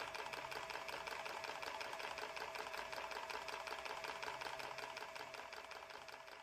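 A machine running with a fast, even clatter, about nine strokes a second, over a steady hum, starting to fade near the end.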